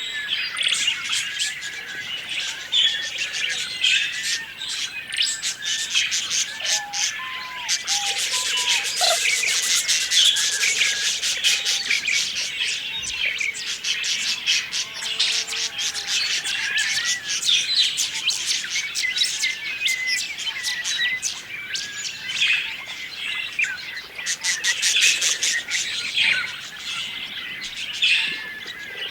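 A flock of budgerigars chattering: many overlapping chirps and warbles, with stretches of rapid clicking.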